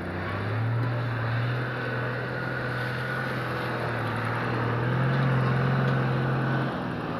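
Off-road SUV's engine running under load as it drives across a grassy slope, holding a steady note. It grows louder about five seconds in, then drops away near the end.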